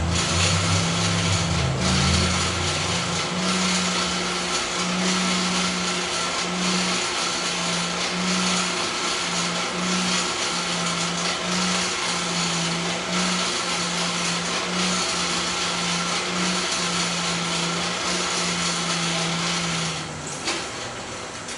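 A motor-driven shop machine running steadily for about twenty seconds, with a loud hiss and a low hum that wavers slightly in pitch, then stopping near the end.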